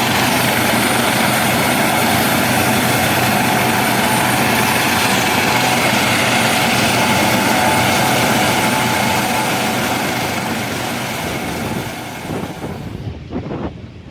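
Sikorsky UH-60 Black Hawk helicopter running loud and steady, rotors and turbine engines together. It fades in the last few seconds and gives way to gusts of wind on the microphone.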